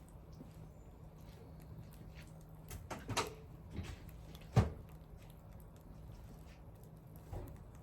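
Wood fire crackling with faint scattered ticks, and a few sharp pops from the burning wood, the loudest a little past halfway.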